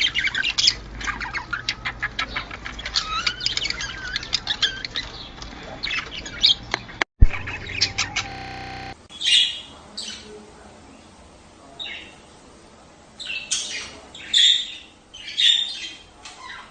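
A budgerigar flock chattering and chirping in a dense, rapid warble. After a sharp click about seven seconds in it changes to sparser single chirps and squawks, roughly one a second.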